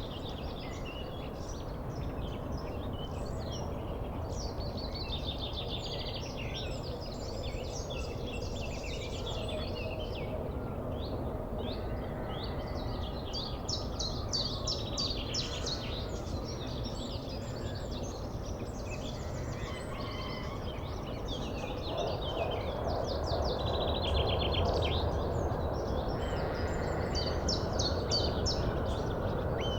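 Several small birds chirping and singing in quick, overlapping phrases over a steady low background rumble. The rumble swells about two-thirds of the way through.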